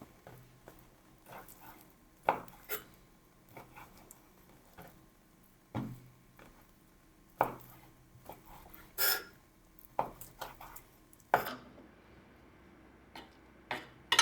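Irregular knocks and clinks of kitchen utensils, dishes and pans being handled, spaced a second or more apart, with one longer scraping clink about two-thirds of the way through.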